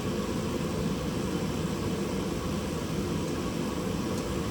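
Steady rushing noise of a space heater running in the garage, with a faint small click about four seconds in.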